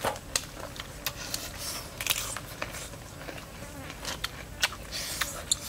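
Close-up eating sounds of grilled pork ribs being bitten and chewed: wet mouth clicks and lip smacks in an irregular string.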